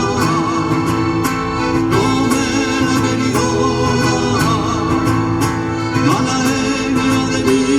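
Live folk music led by an accordion, with percussive strokes and a voice singing over it.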